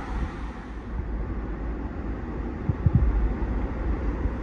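Steady rush of creek water with wind buffeting the microphone, and a few short low knocks close together about three seconds in.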